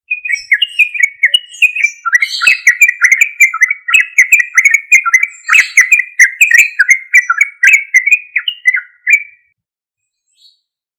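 Yellow-vented bulbul (trucuk) singing a loud, fast, chattering song of short notes run together, stopping about nine seconds in.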